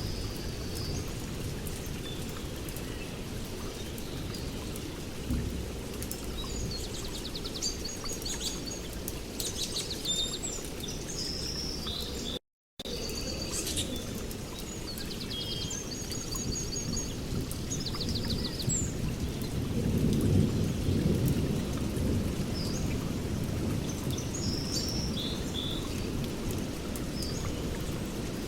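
Small birds chirping and trilling in short phrases over a steady low rumble that swells about twenty seconds in. The sound cuts out completely for a moment near the middle.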